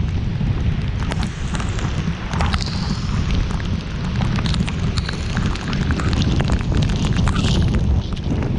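Heavy rain pelting a moving car, a dense hiss of many sharp drop hits over a steady low rumble.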